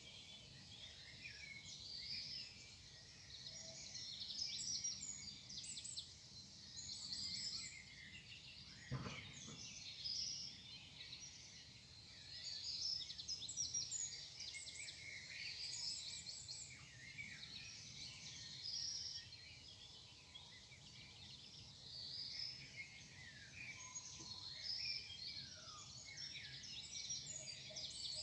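Morning chorus of several songbirds chirping and trilling over one another, with a brief low thump about nine seconds in.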